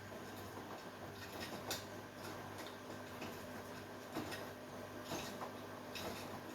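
Beko 10kg front-loading washing machine running a quick wash with a load of bedding and towels: a steady motor hum with irregular short knocks and swishes from the tumbling drum.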